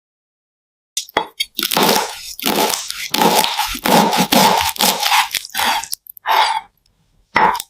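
Crunching and chewing of crispy deep-fried Vietnamese meat spring rolls. A dense run of crunchy bites starts about a second in, and three separate crunches follow near the end.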